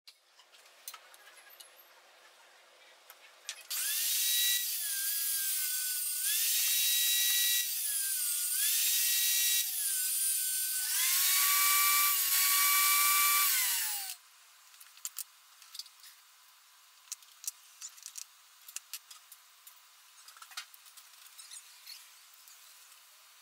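Electric drill running in four bursts of a few seconds each, its whine sagging under load and recovering within each burst, with small clicks and knocks before and after.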